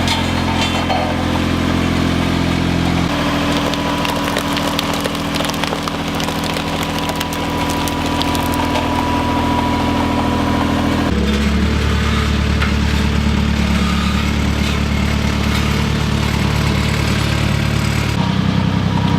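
Road roller's engine running steadily, its pitch shifting abruptly three times.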